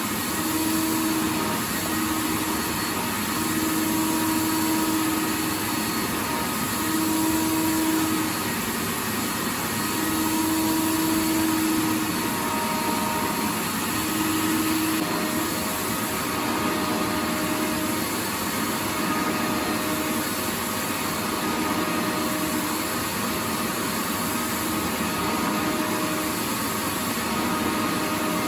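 Vacuum cleaner running steadily: a continuous rushing hiss with a faint hum that fades in and out every second or two.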